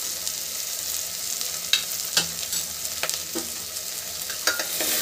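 Chopped potatoes, onions and carrots sizzling as they fry in oil in a pressure cooker, with a steel spoon stirring them and knocking sharply against the pot about five times.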